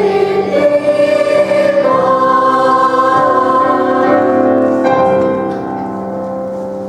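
Boys' choir singing the song's final phrase in sustained, held notes that grow quieter about five seconds in, as the song closes.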